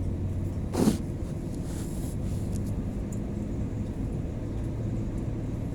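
Steady low rumble and hum of an airliner cabin, with one brief thump just under a second in.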